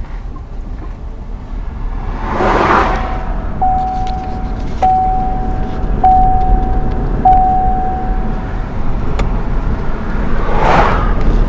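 Steady road noise inside the cabin of a Chevy Bolt electric car towing a trailer, with two whooshes of passing traffic, one about two seconds in and one near the end. In between, a steady mid-pitched tone sounds in about five back-to-back pulses of just over a second each.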